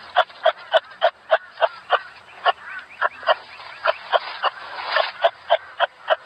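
Kangaroo calling: a quick, even run of short calls, about three a second, with a louder, denser stretch about five seconds in.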